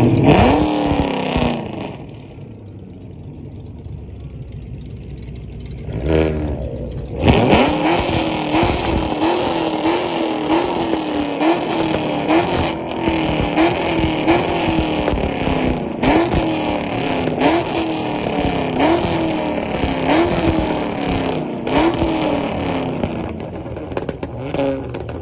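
Car engine being revved hard: one rev that falls back to idle, then, from about a third of the way in, a long run of quick throttle blips roughly once a second, each rising and dropping back.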